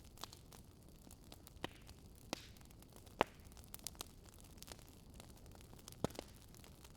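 Wood fire crackling in a fireplace: a soft, steady hiss with scattered sharp pops at irregular intervals, the loudest about three seconds in.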